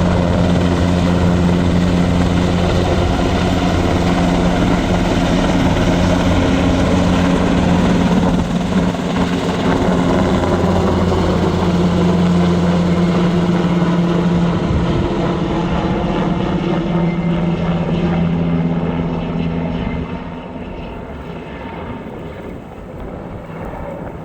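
Wildfire-fighting helicopter's rotors beating with a steady low drone. The pitch shifts slightly partway through, and the sound grows fainter near the end.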